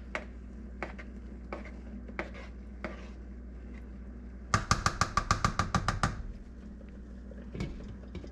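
A few light taps, then a quick run of about a dozen electronic beeps, roughly eight a second, from an electric stovetop's touch controls, over a steady low hum.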